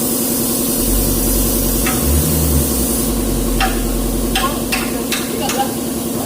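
Hino truck's diesel engine idling steadily. A deeper low rumble joins from about a second in and fades out near the end, and about five sharp clicks fall in the second half.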